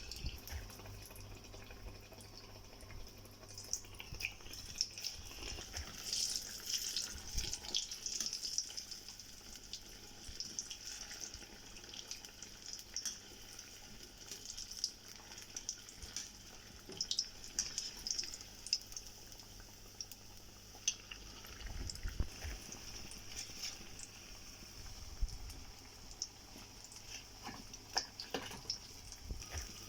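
Besan-battered sweet potato slices deep-frying in hot oil: a steady, high sizzle with continual small crackles and pops.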